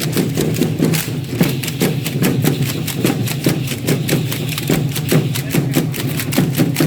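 Rhythmic percussion of a matachines dance: quick, even beats of stamping and rattling, several a second, over a steady low drone.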